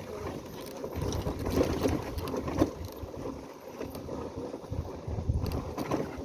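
Motorcycle running along a rough dirt mountain track: a steady engine and road noise with irregular short knocks.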